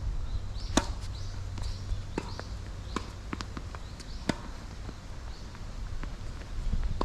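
Tennis rally on a hard court: racket strikes and ball bounces as sharp pops about once a second, the loudest about a second in. Wind rumbles on the microphone underneath.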